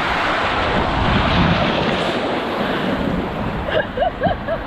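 Rushing water and wind buffeting the microphone during a ride down a water-park slide. Near the end a person's voice breaks in with short wavering sounds.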